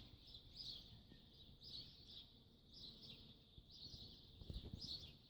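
Faint high bird chirps repeating about once a second over a soft low background hum.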